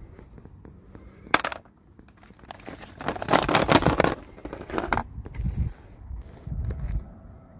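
Toy packaging being handled and opened: a sharp click about a second in, then a couple of seconds of crackling and crinkling, followed by a few softer knocks and rustles.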